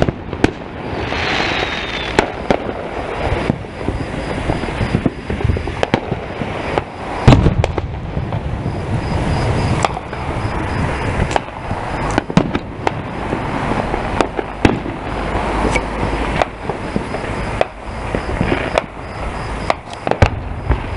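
Fireworks going off repeatedly: irregular bangs and crackles of varying loudness, the loudest about seven seconds in, with a short falling whistle about a second in.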